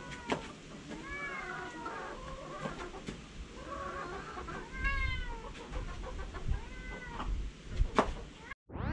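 A cat meowing several times, short falling calls spread through the stretch, with a few sharp knocks in between.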